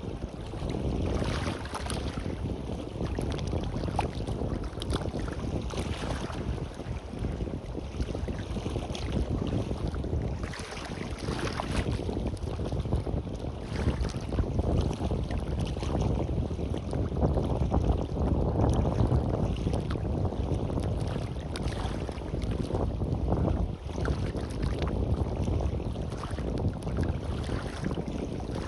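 Sea waves washing onto a beach in recurring swells, with wind buffeting the microphone in a constant low rumble.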